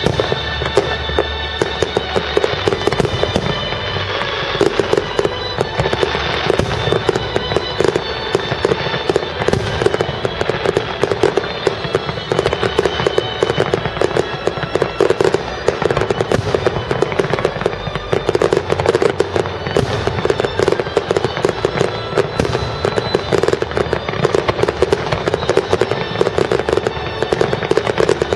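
Fireworks display: a dense, continuous barrage of popping and crackling shell bursts, with the show's music playing underneath.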